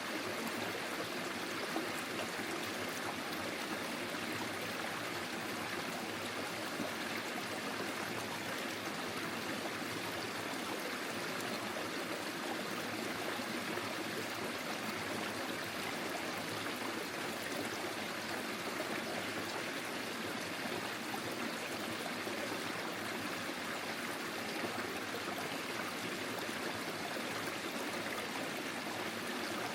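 Small forest stream flowing over stones, a steady babbling and trickling of water without pause.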